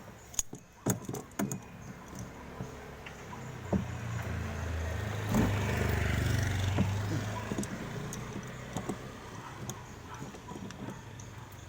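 A vehicle passes, its low engine hum swelling over a few seconds and fading again, with a few sharp clicks and knocks in the first second or two.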